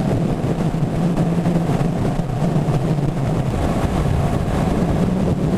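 KTM 1290 Super Duke GT's 1301 cc V-twin engine running steadily as the motorcycle rides along at an even speed.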